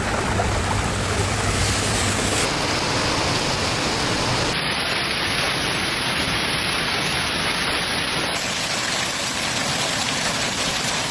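Steady, loud rush of heavy rain and running water. Its character changes abruptly a few times, as the footage cuts between clips.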